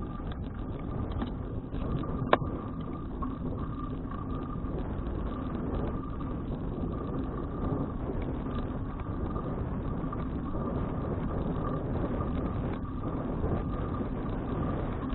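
Wind buffeting an action camera's microphone over a steady rumble from a moving bicycle, with a faint steady tone underneath. One sharp click about two seconds in.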